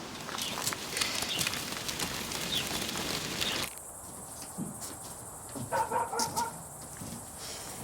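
Rural outdoor ambience with a dog barking several times in the distance, after a sudden cut from busier outdoor noise with bird chirps.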